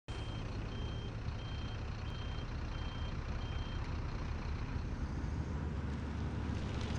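Scania city bus engine running with a steady low rumble, while a reversing alarm beeps six times in even, high-pitched beeps over the first four seconds.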